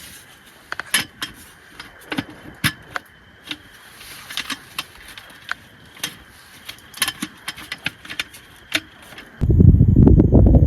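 Scattered small clicks, taps and clinks of gear being handled, irregular and never more than a few at a time. About nine seconds in, a sudden loud low rumble of strong wind on the microphone takes over.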